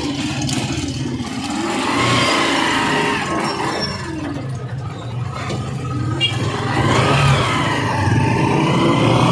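Engine of a Honda motorcycle-sidecar tricycle running under way, its pitch rising and falling twice as it speeds up and slows.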